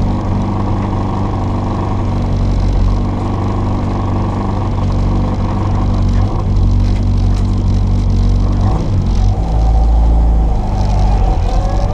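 Mini Cooper S engine with an Arden 8-port cylinder head and twin Weber 40 DCOE carburettors, running hard on a rally stage at a steady note. About nine seconds in the note breaks off, then climbs in pitch near the end as the car pulls again.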